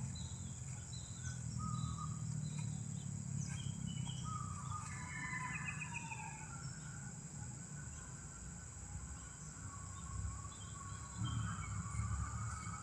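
Several small birds chirping in short calls, over a steady high-pitched insect drone and a low rumble.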